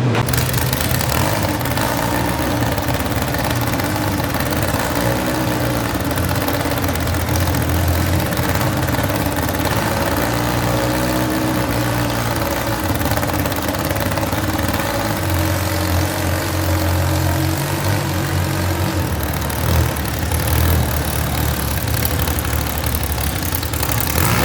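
Modified pulling garden tractor engine running steadily at low speed, close by, with small shifts in pitch.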